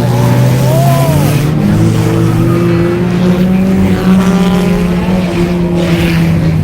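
Several stock car engines running hard together as an enduro pack laps the track, steady and loud, with a brief tyre squeal about a second in.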